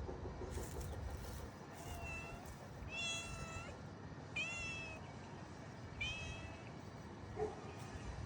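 A cat meowing four times in short, high-pitched calls, over a steady low background rumble.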